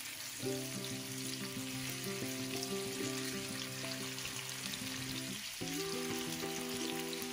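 Salmon fillets frying in hot oil in a pan: a steady sizzle with fine crackling. Soft background music of held chords comes in about half a second in.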